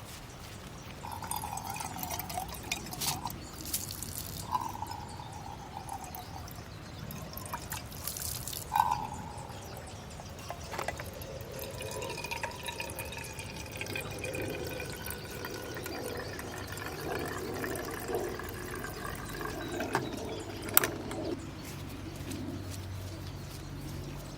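Liquid being poured into a container, with a few short splashes of pouring followed by a longer pour whose pitch rises as the container fills. Scattered clicks and knocks come from handling.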